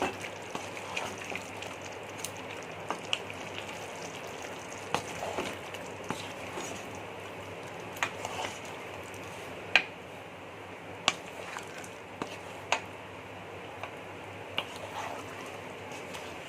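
Chicken masala sizzling in a pan as it is stirred, with the spatula knocking sharply against the pan now and then.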